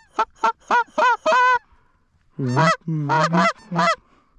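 Goose call blown in a Canada goose sequence: a run of about five quick, sharp clucks, a short pause, then three or four longer, lower honks that break upward in pitch. The notes are loud and close.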